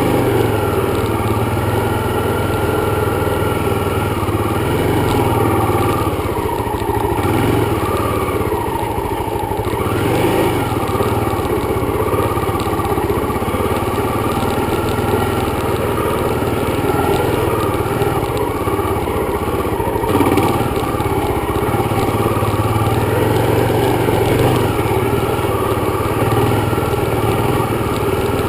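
Dirt bike engine running steadily on a ride, its pitch shifting up and down with the throttle.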